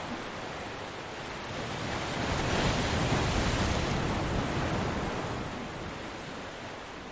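Ocean waves breaking on a beach: a steady wash of surf that swells to a crash about three seconds in and slowly recedes.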